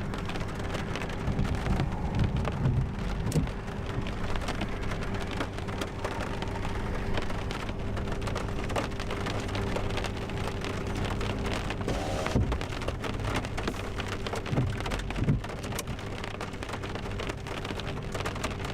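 Heavy rain pattering on a vehicle in a thunderstorm, a dense crackle of drops. Low thunder rumbles come about a second in and again around fourteen seconds, over a faint steady hum.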